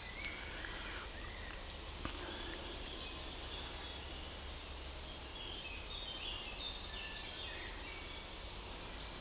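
Wild birds singing, with many short chirps and song phrases scattered through, over a steady low background rumble. A single sharp click about two seconds in.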